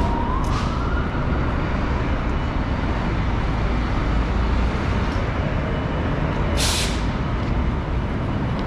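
Steady low rumble of city street traffic, with a short, sharp hiss of a bus or truck air brake releasing about two-thirds of the way through.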